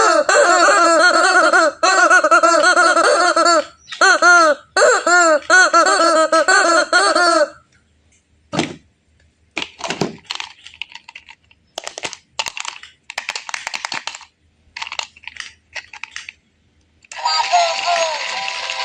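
Battery-operated toy police car's electronic siren warbling rapidly for about seven seconds, then stopping. Then come irregular plastic clicks and rattles. A synthesized electronic tune starts near the end.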